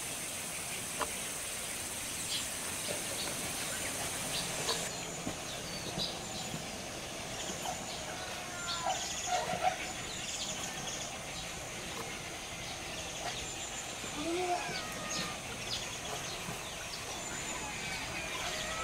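Birds chirping in short scattered calls over steady outdoor background noise, with a high steady hiss that stops about five seconds in.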